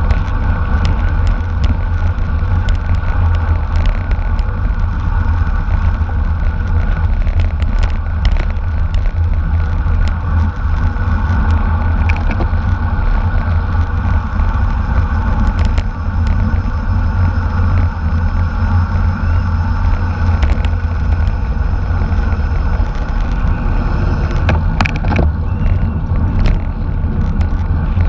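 Bicycle riding at race speed: a steady, heavy low rumble of wind on the microphone mixed with road noise, with scattered short clicks and rattles.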